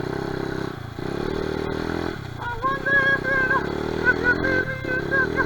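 Honda XR70R pit bike's small four-stroke single-cylinder engine running under throttle, dropping off and picking back up about a second in, again about two and a half seconds in, and near the end. Over the second half a higher wavering tone rides on top.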